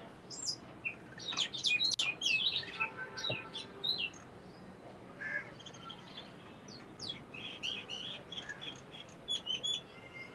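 Small birds chirping: quick, high-pitched chirps in flurries, busiest in the first few seconds and again near the end.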